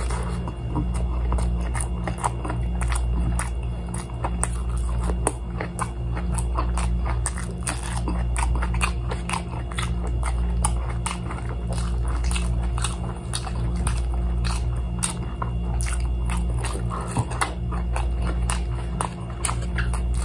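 Close-up eating sounds: crispy fried chicken being bitten and chewed, with many short sharp crunches throughout. A steady low hum runs underneath.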